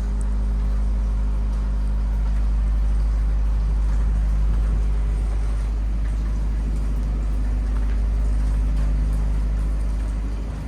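An engine running steadily: a low drone with a deep rumble beneath it.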